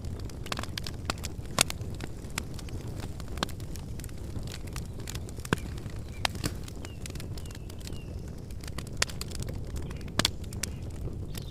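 Wood campfire crackling: irregular sharp pops, a few much louder than the rest, over a steady low rush of the burning fire.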